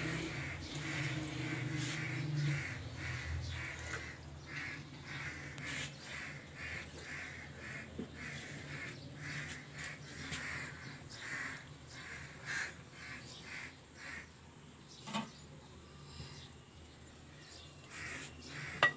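A bird calling over and over, about two harsh calls a second, dying away in the last few seconds.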